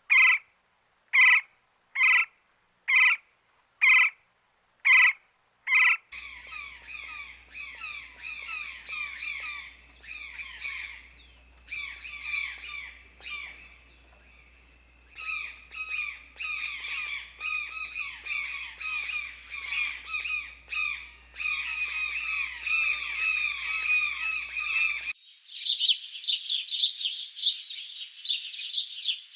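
Birds calling in three cut-together stretches: first a run of about eight evenly spaced single squawks, then from about six seconds in a flock chattering with many overlapping calls, and near the end a switch to higher, thinner chirping.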